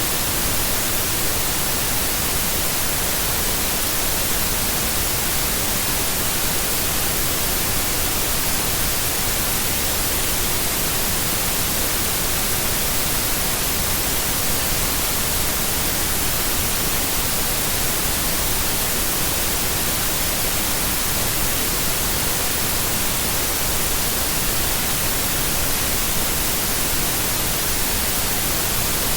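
Steady, unbroken white noise: an even hiss across the whole range, strongest in the treble.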